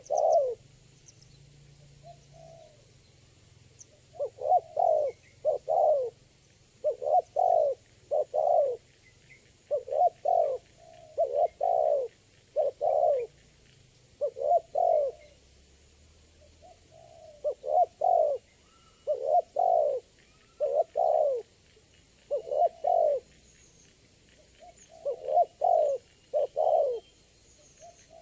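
Spotted dove cooing over and over, each phrase a quick group of two to four low coos, repeated about every two to three seconds. Faint high chirps of small birds sound in the background.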